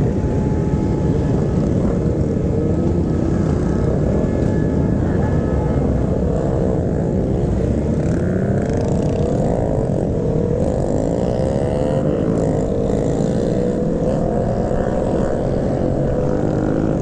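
Motorcycle engine running under heavy wind rush, its pitch rising and falling repeatedly as the rider rolls the throttle on and off.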